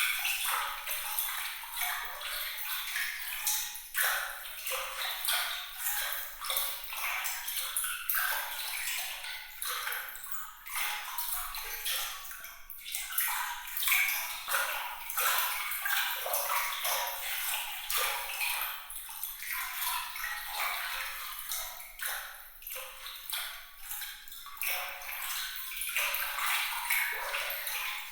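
Water trickling and splashing without pause, full of small plinking drops, light and bright with nothing in the low range.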